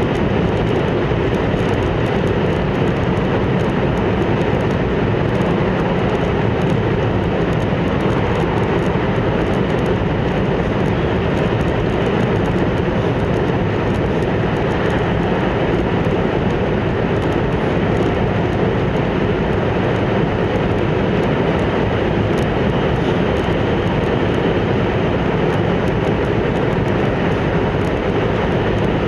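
Hokkaido Shinkansen train running at speed, heard from inside the passenger car: a steady rumble and rush of wheels, rails and air that stays even throughout.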